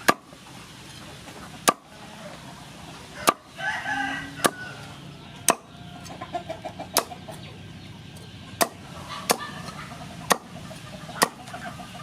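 About ten sharp knocks at irregular intervals, roughly one a second, with a chicken clucking in the background, most clearly about four seconds in and again later.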